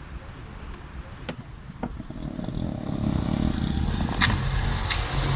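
A motor vehicle engine running and growing steadily louder, with a few sharp clicks.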